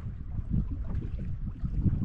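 Wind buffeting the microphone out at sea on a small boat: an uneven, gusting low rumble.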